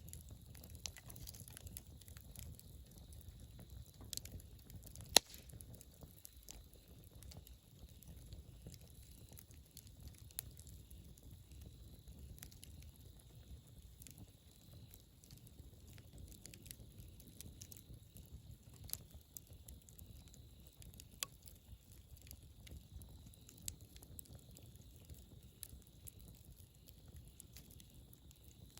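Wood campfire burning, with scattered small crackles and pops over a low steady rumble, and one sharp, much louder pop about five seconds in.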